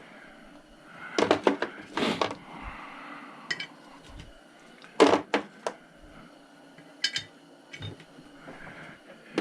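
Steel sockets and hand tools clinking and clattering in scattered bursts as sockets are picked out of a socket set, tried and set back down.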